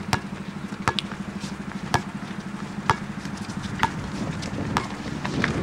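A basketball being dribbled, bouncing on the court about once a second over a steady low hum.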